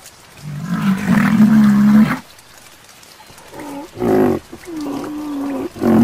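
Rhinoceros calling: one long low call of about a second and a half, then three shorter calls in the second half, the middle one held on a steady pitch.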